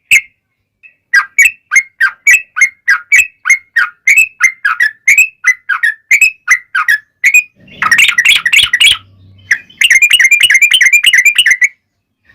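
Yellow-vented bulbul (trucukan) calling loudly: a run of short, sharp chirping notes about three a second. About eight seconds in it breaks into a fast rolling trill (the 'ropel') in two spells.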